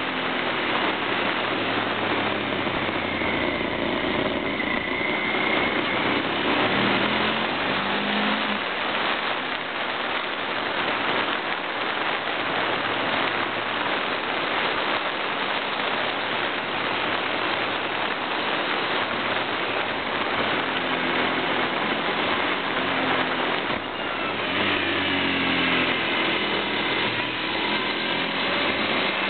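Motorcycle engine running on the move, heavily masked by rushing wind on a camera mounted on the bike's indicator. The engine's pitch climbs and falls a few seconds in and again near the end.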